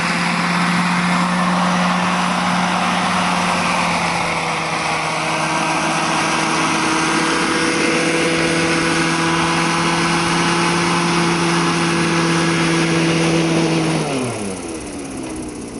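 Huey helicopter running at a steady pitch with a constant hiss over it. About fourteen seconds in, the power is cut and the pitch falls quickly as the rotor spins down.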